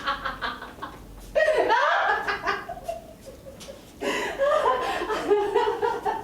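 A person laughing in pitched, repeated 'ha' bursts: the laughter trails off at the start, breaks out again loudly with a falling pitch about a second and a half in, and once more about four seconds in.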